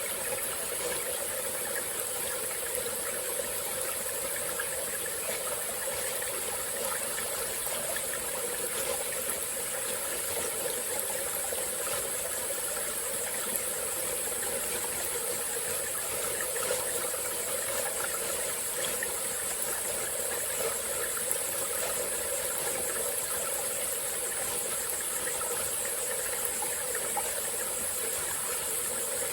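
Small tropical-forest stream flowing steadily over rocks, with a constant high-pitched chorus of insects such as crickets or cicadas over the water.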